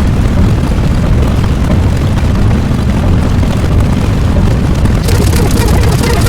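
Loud, steady rumbling noise, heaviest in the bass, with a hiss in the highs that grows brighter about five seconds in.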